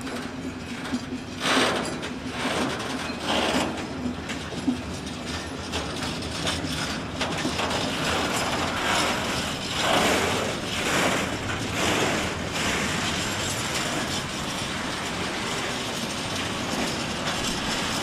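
Freight train wagons, the last of them empty flatcars, rolling past on the track: wheels running on the rails and loose metal rattling and clanking irregularly, with a low steady tone over the first few seconds.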